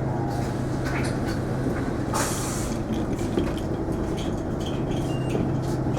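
Cabin noise of an Isuzu Erga non-step diesel city bus under way: a steady engine hum with road rumble. There is a short hiss of air about two seconds in.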